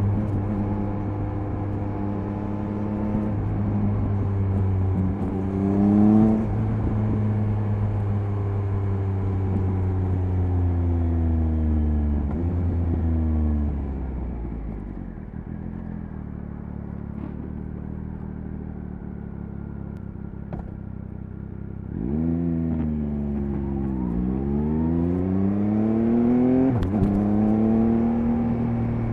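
Triumph Speed Triple 1050 RS's three-cylinder engine pulling through the gears on the expressway, its pitch jumping at an upshift. Then it rolls off and runs quieter for several seconds before the throttle comes back on about three-quarters of the way in and it revs up hard again.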